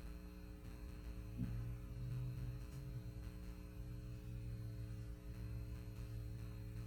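Low, steady electrical hum, a little stronger from about a second in.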